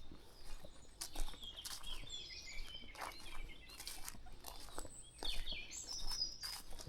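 Small birds singing and chirping in quick, high twittering phrases, with the soft steps of someone walking along a country path.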